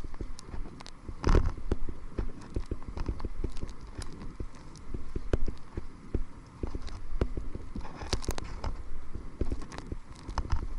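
Kayak paddling into the wind: paddle strokes in the water with many uneven knocks and clicks, over a low wind rumble on the microphone. There are louder splashy surges about a second in and again near the end.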